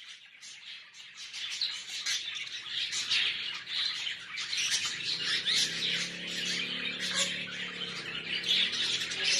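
Budgerigars chattering and chirping continuously, a dense run of quick squawks and tweets.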